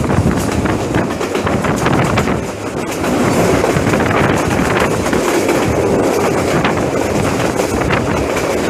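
Passenger train running along the track, heard from on board: a steady rumble and clatter of the carriage wheels over the rails, with some wind noise on the microphone. It grows a little louder about three seconds in.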